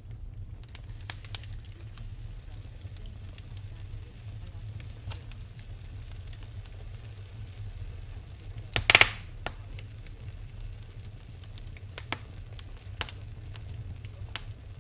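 Wood fire burning in a fireplace, crackling with scattered small pops over a low steady rumble, and one loud sharp pop a little past the middle.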